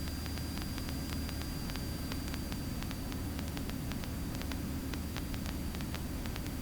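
Steady hiss over a low engine hum in the cabin of a Cessna 177B Cardinal on approach, with faint scattered clicks, as picked up through the cockpit audio feed.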